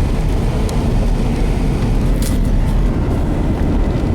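Steady low rumble inside a Chevrolet Tahoe's cabin as the vehicle runs, with a brief faint high hiss about two seconds in.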